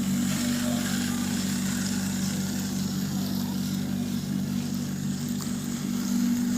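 Small DC gear motors of a homemade RC 4×4 tractor running, a steady even-pitched hum.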